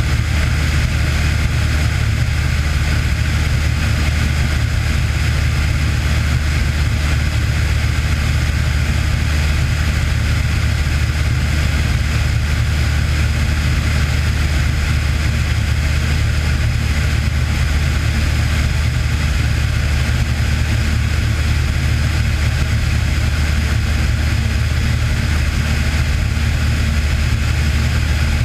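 Cessna 182's piston engine and propeller running at a steady, unchanging drone.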